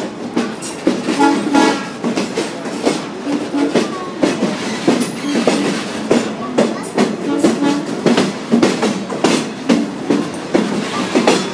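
Heritage excursion train rolling along jointed track, its wheels clicking over the rail joints in a steady, repeating rhythm.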